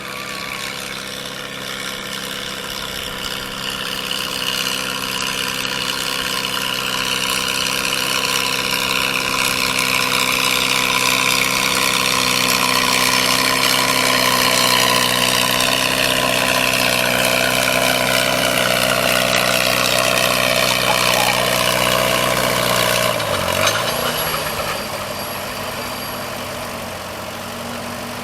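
A gas farm tractor engine running hard under load, most likely pulling the sled at a tractor pull. It grows louder over about twenty seconds while its pitch slowly sags as it labours. About 23 seconds in the pitch dips sharply, and the engine settles back to a quieter, steady run.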